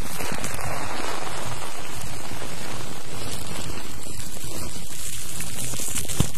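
ASMR scrubbing close to the microphone: a dense, steady scratchy hiss, with a single sharp tap near the end.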